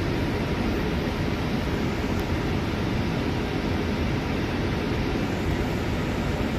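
Scania C250EB city bus on the move, a steady rumble of engine and road noise heard from inside the cabin.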